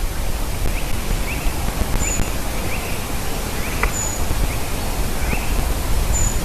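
Steady low rumble and hiss of outdoor air on the microphone, with faint bird calls over it: a thin, very high note about every two seconds and short chirps in between. There is a single click about four seconds in.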